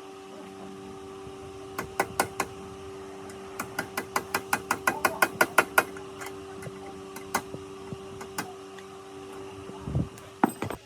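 A quick run of sharp clicks that come faster and faster, with a few single clicks before and after, over a steady machine hum.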